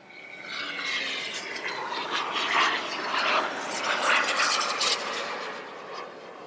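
Jet aircraft flying past, swelling in about half a second, holding loud for several seconds, then fading away near the end.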